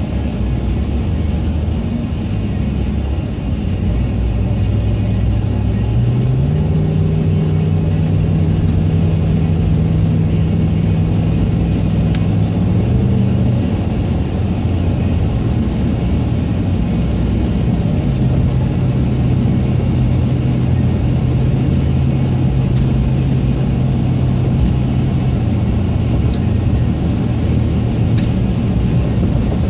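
Road noise inside a moving car: a steady low rumble of tyres and engine. A low engine drone steps up in pitch about six seconds in, holds for several seconds, drops away, and returns at a slightly lower pitch for several seconds later on.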